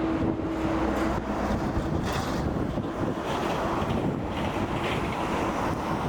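Departing Boeing 777's jet engines making a steady, loud rumble, with wind buffeting the microphone. A steady engine tone fades out about a second in.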